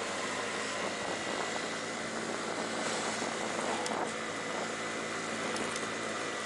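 Yamaha Vino moped's small engine running steadily while riding, with road and wind noise.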